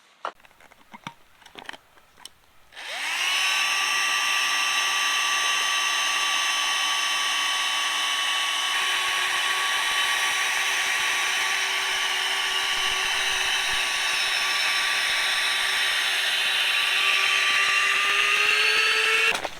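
A small electric motor spins up about three seconds in and runs steadily with a whine, its pitch rising slightly just before it cuts off near the end.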